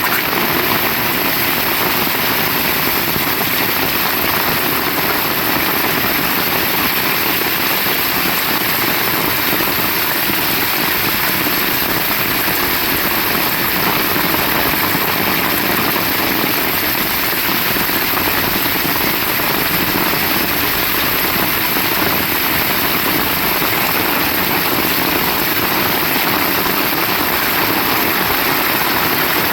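Heavy rain pouring down, a dense, steady hiss that holds the same level throughout, with no thunder or other distinct sounds standing out.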